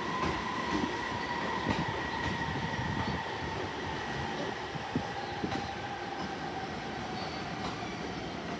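E231-series electric commuter train running along a station track, its wheels rumbling and knocking over the rails. A high whine slowly falls in pitch throughout.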